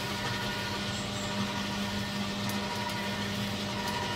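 Electric garden shredder's motor running with a steady hum while spruce branches are fed through it.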